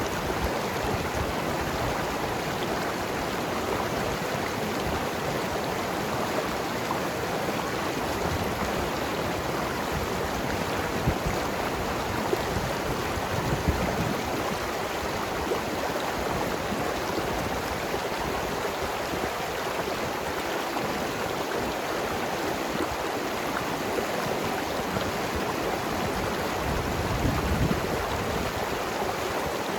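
Mountain river flowing and tumbling over rocks: a steady rush of water with gurgling, and a few slightly louder splashes now and then.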